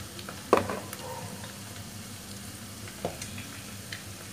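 Egg with green chilli and curry leaves frying in hot oil in a kadai, sizzling steadily with scattered crackles. A sharp click comes about half a second in, and a smaller one about three seconds in.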